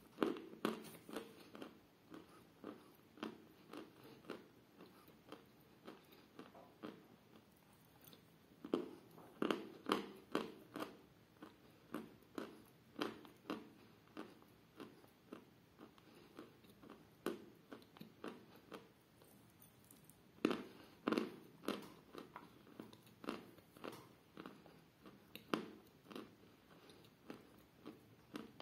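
A person chewing a mouthful of edible chalk: a steady run of crisp crunches, about two a second, thickening into louder clusters of fresh bites about nine and twenty seconds in.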